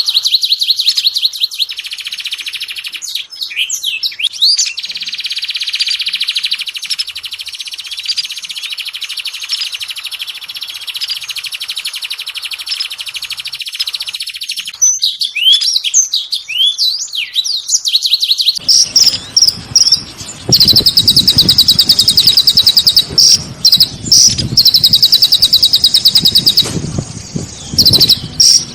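Recorded songbird song played as a lure: a long, fast, high trill with chirps over it. About two-thirds of the way in the recording changes to louder rapid trills repeated in short bursts, with a low rushing noise underneath.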